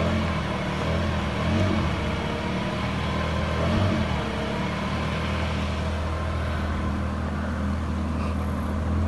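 Small boat's motor running steadily at cruising speed, a low even drone.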